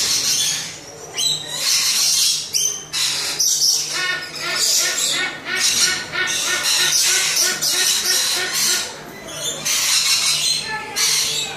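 Birds squawking harshly in repeated bursts, with a run of quick, honking calls through the middle, over a faint low steady hum.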